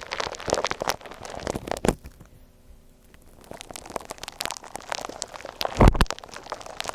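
Gritty shaved-ice slime worked by hand, a dense run of small crunches and crackles. It eases off for about a second a couple of seconds in, and there is one louder, deeper thump near the end.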